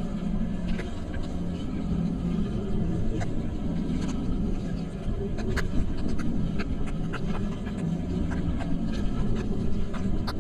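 Steady low rumble of a vehicle driving along with a constant hum, dotted with scattered light ticks of light rain striking the rain cover.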